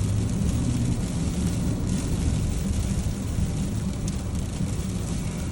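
Steady in-cab drone of a Chevy four-wheel-drive pickup driving on an icy road, with engine and tyre rumble and a steady hiss over it.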